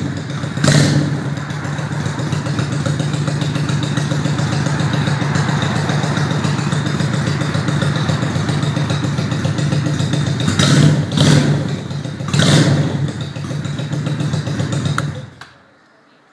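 Customized Honda Shadow motorcycle's V-twin engine running at idle through its muffler, blipped up in short revs about a second in and three times near the end, then switched off, the sound dying away suddenly.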